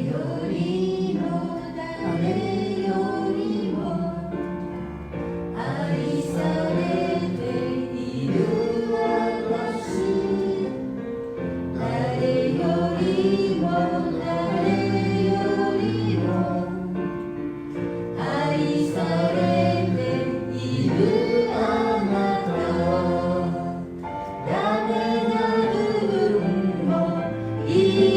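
A worship song sung by a group of voices together, with instrumental accompaniment of held chords and bass notes.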